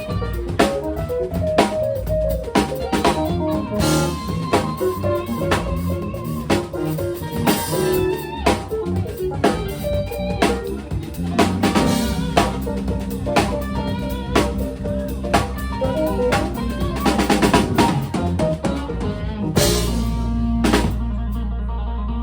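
Live band playing an instrumental with drum kit, electric guitar and bass. There is a quick run of drum strokes about seventeen seconds in, and a held low chord near the end.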